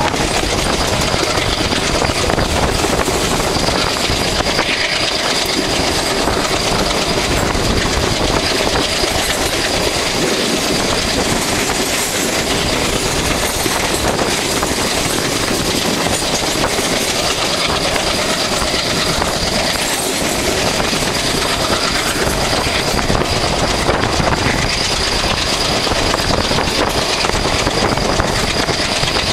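Passenger express train coaches running past at speed, their wheels clattering over the rail joints, with a thin steady high-pitched squeal.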